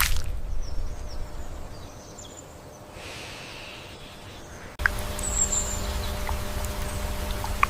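Outdoor ambience with faint, short bird chirps. A little under five seconds in, the background changes abruptly to a louder low rumble with a steady hum, a single high bird whistle and a few small ticks.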